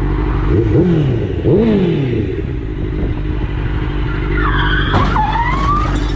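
Car traffic with steady engine and road noise, quick rising-and-falling engine revs about a second in, then a wavering high tyre squeal with a sharp knock about five seconds in.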